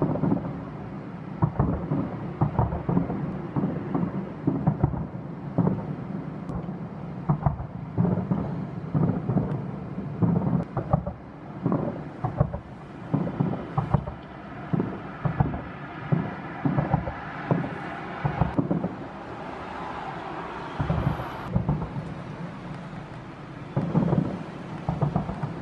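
Aerial fireworks shells bursting in rapid succession, a continuous run of low booms, several a second at times. The booms ease off for a few seconds near the end before a last cluster.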